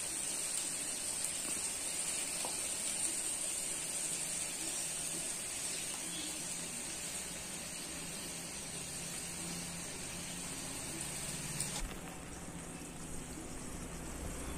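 Onions and whole spices frying in oil in an aluminium kadai, a steady sizzling hiss that drops off suddenly about twelve seconds in.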